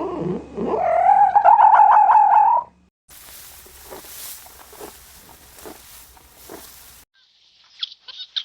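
Animal calls in quick succession: a loud, drawn-out wavering call lasting about two seconds, then a few seconds of noise, then short high-pitched calls near the end.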